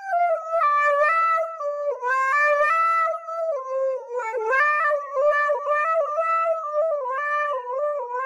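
Husky howling into a handheld karaoke microphone: one long, unbroken howl whose pitch wavers up and down, dipping several times.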